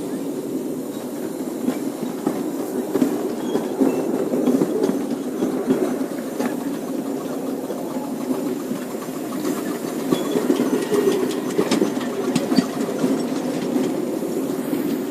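Miniature railway train running along the track, heard from on board: a steady rumble of wheels on rails with irregular clicks over the rail joints.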